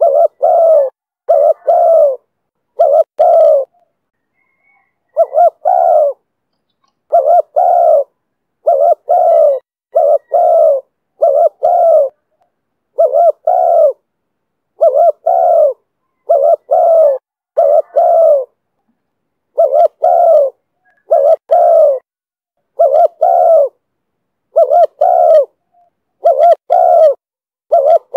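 Spotted dove cooing repeatedly in the 'thổ thúc bổi' voice: short phrases of two or three coos, about one phrase a second, with a brief pause about four seconds in.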